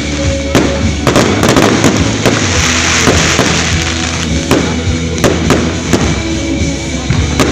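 A fireworks display with repeated sharp bangs in quick succession and a dense spell of crackling in the middle. Music plays alongside.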